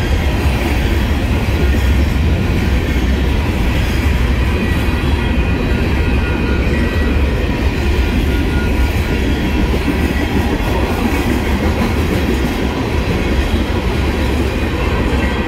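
Freight train cars rolling past a grade crossing close by: a loud, steady rumble of steel wheels on rail with clickety-clack from the rail joints.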